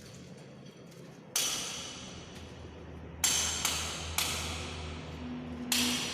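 Five sharp metallic clanks at uneven intervals, each ringing on briefly and fading, over a low steady hum.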